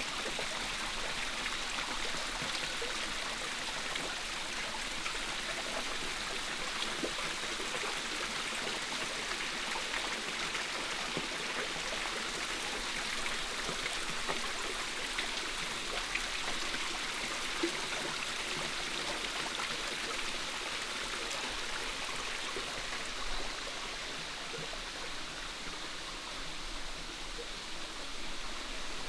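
Steady rushing of a flowing stream, with a few faint ticks scattered through it, dropping slightly in level about three-quarters of the way through.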